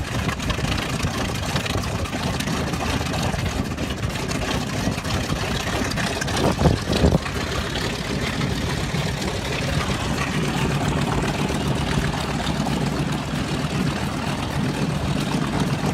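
Twin Wright R-2600 radial engines of a B-25 Mitchell bomber idling on the ground, a steady engine drone, with a brief louder swell about seven seconds in.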